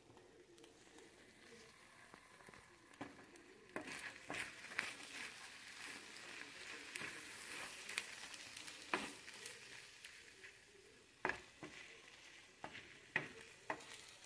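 Egg omelet with shrimp, steak and vegetables sizzling in a nonstick frying pan, the sizzle getting louder about four seconds in. A wooden spatula stirs and scrapes through it, with sharp clicks and knocks against the pan.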